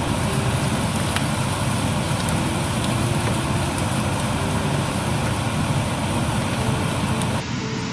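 Steady low rumble of a running vehicle, with an abrupt change in the sound near the end.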